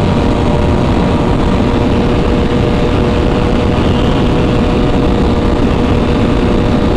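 Motorcycle engine holding an even note at a steady road speed, under a heavy rushing noise of wind on the microphone.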